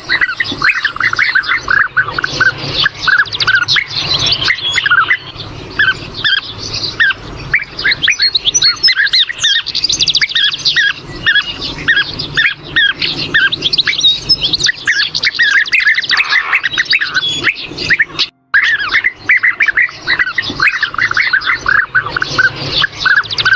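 A flock of bee-eaters calling, many short chirping calls overlapping without pause. The calls break off for an instant about eighteen seconds in, then carry on.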